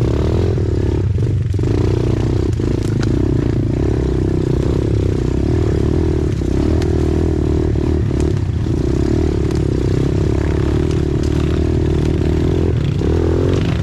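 A 90cc pit bike's engine runs at a fairly steady pitch while riding a trail, dipping briefly a few times as the throttle eases. Scrapes and rattles from the bike moving over rough ground come through over the engine.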